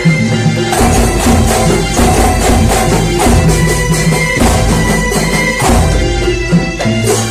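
Kuntulan music: a frame-drum ensemble plays a busy, driving rhythm with deep drum strokes under steady melodic tones.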